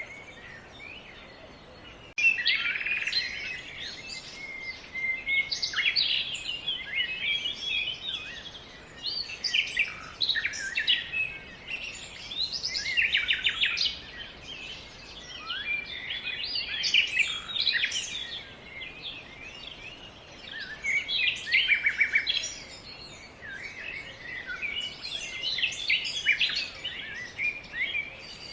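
A songbird singing: phrases of quick chirps and trills a few seconds long, repeated with short pauses between them, starting abruptly about two seconds in.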